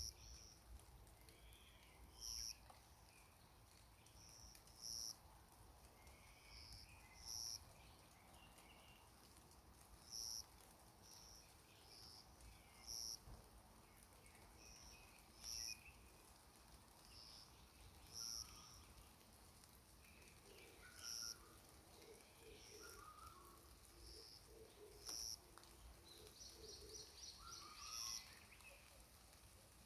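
Faint wild birdsong: one bird repeats a short, high note about every two and a half seconds, while other birds sing fainter warbling phrases in between. A quick trill comes near the end.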